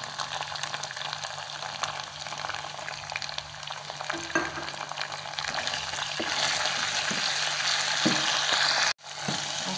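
Corned beef and ground spice paste sizzling in hot oil in a frying pan while a wooden spatula stirs and scrapes it, with small taps against the pan. The sizzle grows louder about six seconds in and cuts out for an instant near the end.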